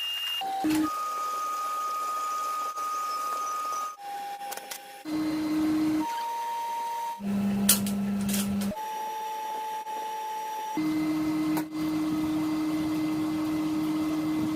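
A small electric motor whining at a steady pitch. The pitch changes abruptly every second or two, and briefly there are a few sharp clicks.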